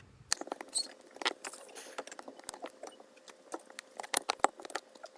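Irregular light clicks and taps of small hard objects being handled, a few each second, as with tools and a phone on a repair bench.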